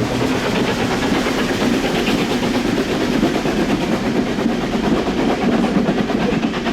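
Steam locomotive working a train: a loud, steady run of rapid exhaust beats over the running noise of the train.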